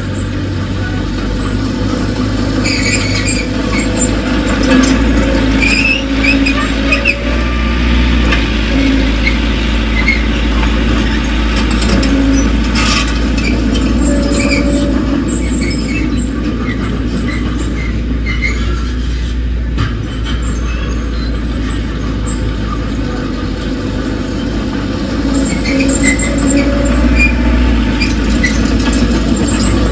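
Crawler bulldozer working: its diesel engine runs steadily, with short squeals and squeaks from its steel tracks.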